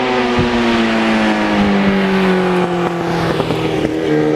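A 1991 Yamaha FZR's inline-four engine running under way, its pitch slowly falling as it eases off, with a step down near the end, over wind and road noise; the sound cuts off suddenly.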